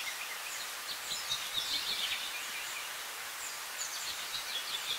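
Birds chirping over a steady outdoor hiss, with runs of short, quick calls about a second in and again near the end.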